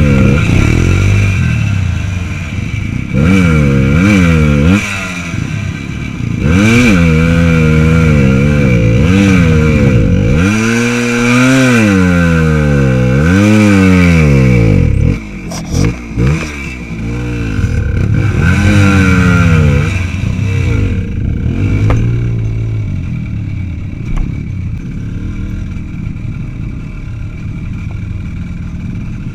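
Small motorcycle engine being ridden, revving up and falling back over and over as the throttle is worked and gears change. It settles to lower, steadier running for the last several seconds.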